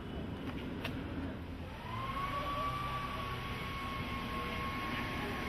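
Steady low engine rumble outdoors. About two seconds in, a high whine slides up to a steady pitch and holds.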